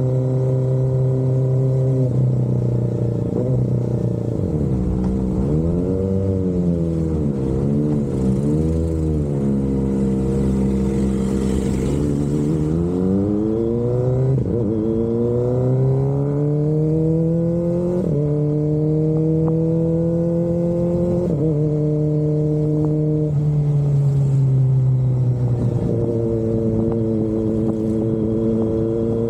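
Kawasaki Ninja ZX-25RR's 249 cc inline-four engine breathing through an Austinracing aftermarket exhaust, its note rising and falling. It wavers up and down a few times, then climbs steadily with two sudden drops in pitch, eases off and settles.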